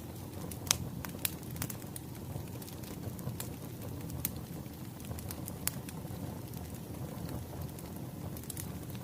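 Wood fire crackling: a steady low rumble of burning logs with scattered sharp pops and snaps, the loudest under a second in.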